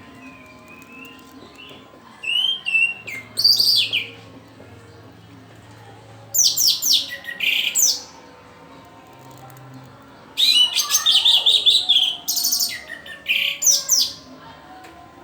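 Orange-headed thrush singing: a few soft calls, then three loud bursts of rapid, high, sweeping notes, the last and longest about ten seconds in.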